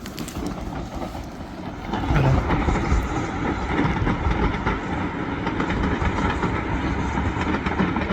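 A train passing close by: a continuous rumble that grows louder about two seconds in and holds steady.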